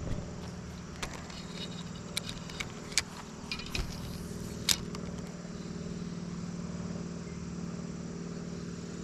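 Steady low mechanical hum throughout, with a handful of sharp clicks and light rattles in the first half.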